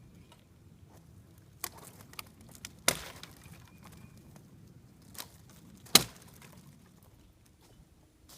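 Dry pine sticks being snapped: several sharp, separate cracks, the loudest about six seconds in.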